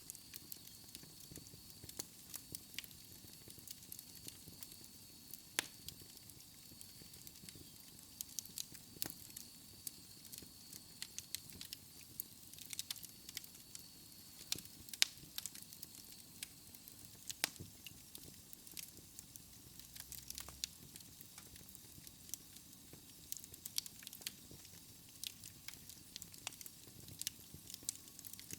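Wood fire burning in a fireplace, crackling with irregular sharp pops and snaps over a soft steady rustle. A faint high thin whistle runs under it for the first half and then fades out.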